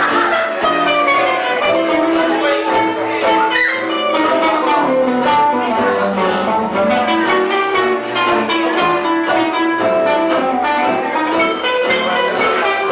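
Live band music in a gypsy style: a bowed-string melody over rhythmic accompaniment.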